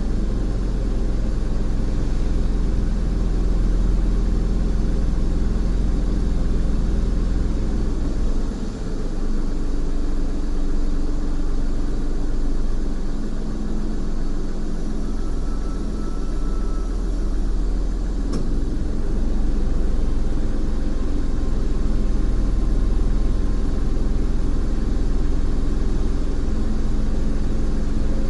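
Car engine idling steadily, heard from inside the cabin as an even low rumble.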